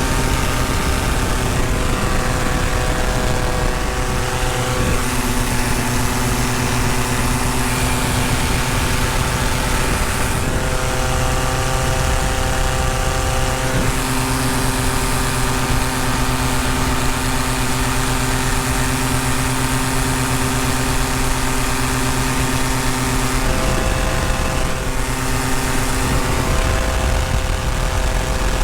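Paramotor engine and propeller running steadily in flight, its pitch shifting up and down a few times as the throttle is changed.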